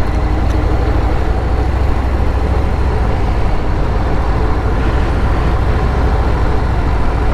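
Steady road noise of a moving motorcycle: wind rushing past and the engine running evenly.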